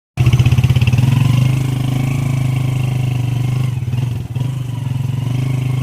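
Motorcycle engine running steadily with a fast, even firing pulse, dipping briefly about four seconds in.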